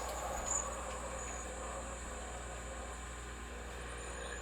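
Smart microwave oven running: a steady, low hum.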